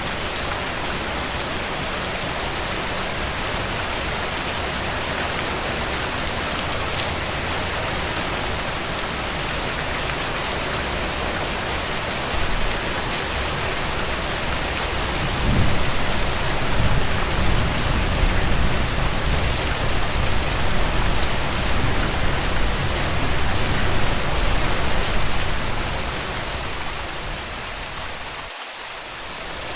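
Steady rain falling on a tent, an even hiss with fine scattered drop ticks. About halfway through, a low rumble swells for roughly ten seconds and then fades.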